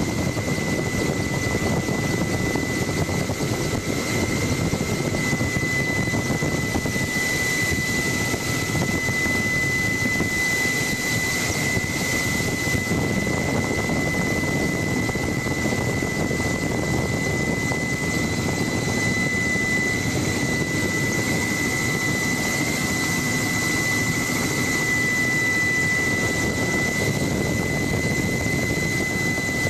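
Helicopter in flight heard from aboard: its turbine engine and rotor make a steady loud rush with a constant high whine, unchanging throughout.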